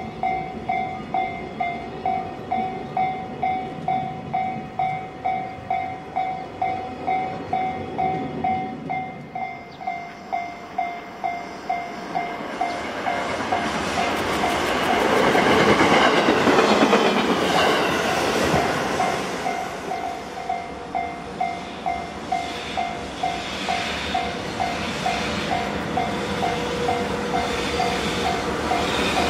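Container wagons of a freight train rolling past on jointed track, then an EV-E301 battery-electric train passing, loudest about halfway through, then the rumble and clatter of an approaching EH500 electric locomotive. Throughout, a level-crossing warning bell rings steadily, about two and a half strokes a second.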